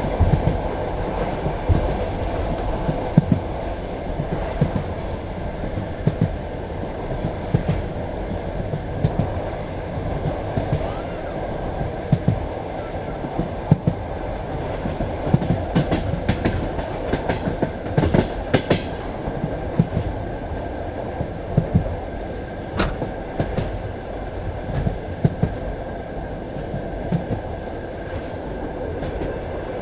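Passenger railway carriage running along the track: a steady low rumble with the wheels knocking and clicking over rail joints, the clicks coming more thickly about halfway through.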